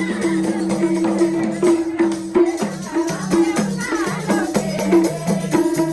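Instrumental passage of live Nepali dohori folk music: sustained low melody notes stepping from pitch to pitch over a steady hand-drum and jingle beat.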